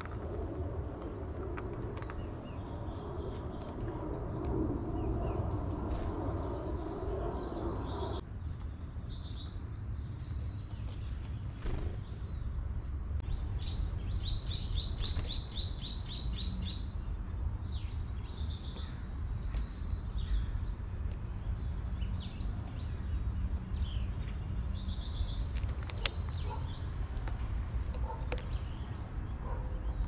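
Small songbirds calling: scattered short high chirps, a rapid trill of evenly spaced notes about halfway through, and three brief high buzzy notes several seconds apart, over a steady low background rumble. A mid-pitched hum underneath stops suddenly about eight seconds in.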